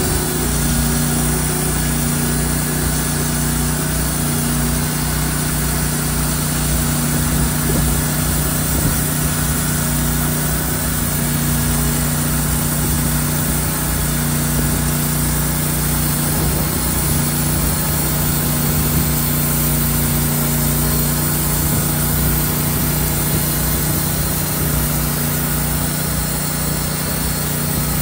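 Sawmill engine running steadily at a constant pitch while a log is being milled into slabs.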